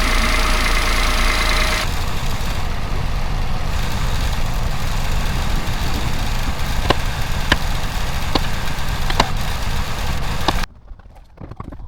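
Toyota Aygo engine idling steadily as it warms up with a newly fitted catalytic converter, with a few sharp ticks a few seconds apart in the second half. The sound cuts off abruptly shortly before the end.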